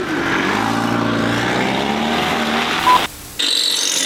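Small hatchback's engine revving hard as the car slides around in a circle on snow, its pitch climbing over the first second and a half and then holding. Near the end it gives way to the steady whine of a cordless drill.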